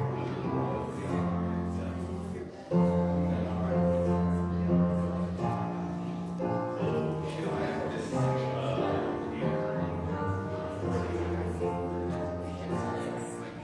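Slow music on a keyboard instrument: sustained chords over a steady bass, changing every second or two.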